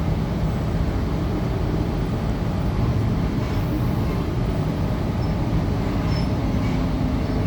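A Tangara electric multiple unit heard from inside, running between stations: a steady low rumble of wheels on the rails and running gear. A faint low hum comes in near the end.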